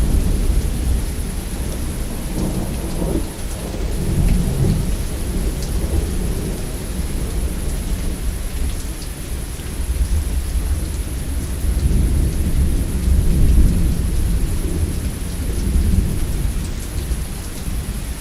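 Steady heavy rain with thunder rolling in long low rumbles that swell and fade several times, loudest about two-thirds of the way through.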